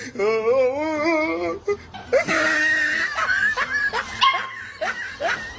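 A dog whining in a long cry with a wavering pitch, then giving a string of short yips and whimpers.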